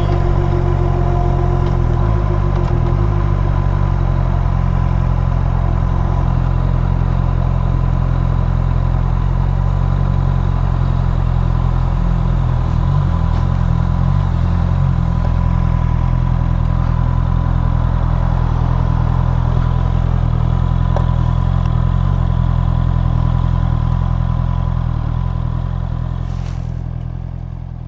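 Motorcycle engine running at a steady speed, a constant low drone that fades away near the end.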